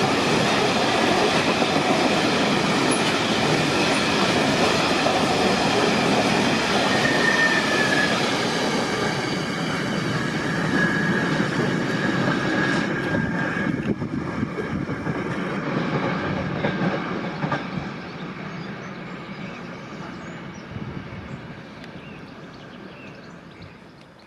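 Freight engineering train's wagons rolling past, wheels clattering over the rail joints, with a thin wheel squeal partway through. The sound fades steadily over the last several seconds as the train draws away.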